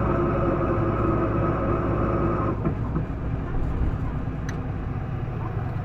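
Isuzu Erga city bus's diesel engine revving high under acceleration, with a steady whine made of several pitches. The whine and the engine note drop away suddenly about two and a half seconds in, leaving a lower running rumble.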